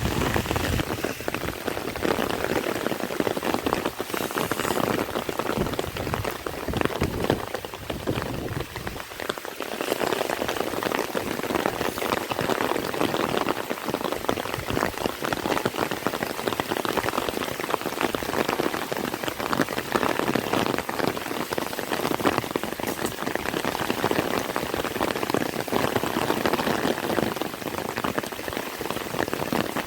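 Heavy rain falling steadily, a dense, irregular patter of drops hitting surfaces.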